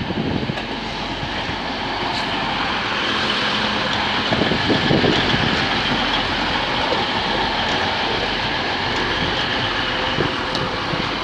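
TransPennine Express Class 185 diesel multiple unit running past: a steady rumble of its diesel engines and wheels on the track, with a few faint clicks.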